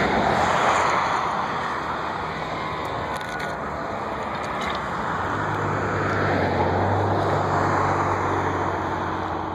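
Engine noise of a passing vehicle or aircraft: a loud rushing sound that swells about a second in and again around seven seconds, with a low steady drone coming in during the second half.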